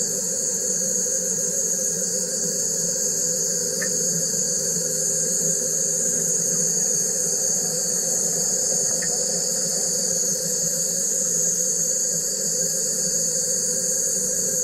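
Wire EDM machine running: a steady high hiss with a lower, even hum underneath, unchanging, with two faint brief chirps.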